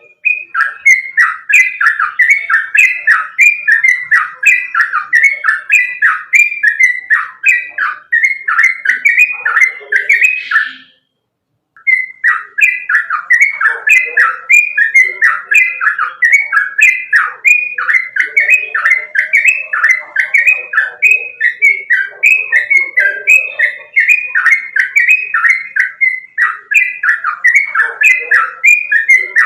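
Sooty-headed bulbul (trucukan) singing a long string of short, falling, whistled notes, two or three a second. The song breaks off for about a second near the middle, then resumes.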